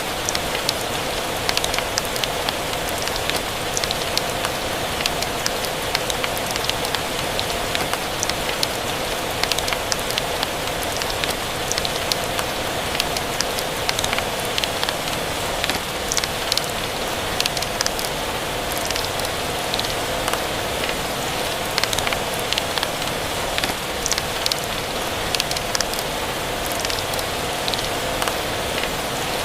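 Steady rain mixed with a fireplace's crackling: an even hiss with frequent small, sharp pops throughout.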